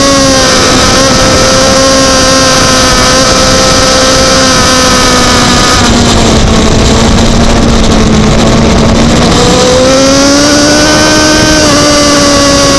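Racing sport motorcycle's engine heard from an onboard camera at speed, running at a steady high note over heavy wind rush; the note eases off a little about halfway through and climbs again near the end as the throttle opens.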